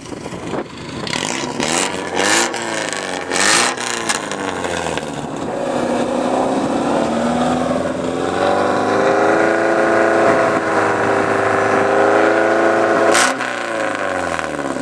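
Porsche 944's 2.5-litre inline-four through a straight-pipe exhaust with no catalytic converter or muffler. It revs up about halfway through and holds a high, steady note for several seconds, then drops off abruptly near the end. In the first few seconds the engine note rises and falls, with a few short bursts of noise.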